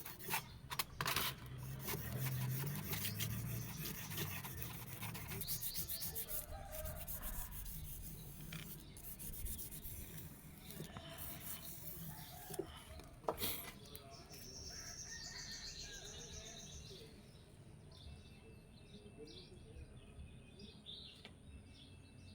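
Steady hand rubbing and scraping on steel, with a few sharp clicks, thinning out over time. Birds chirp faintly about two-thirds of the way through.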